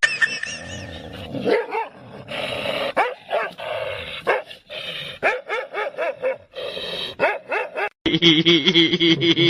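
A dog barking repeatedly, with high yips among the barks.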